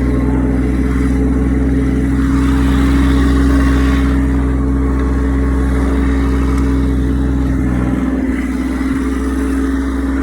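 Massey Ferguson tractor engine running steadily under load, with a shift in its low tone about eight seconds in.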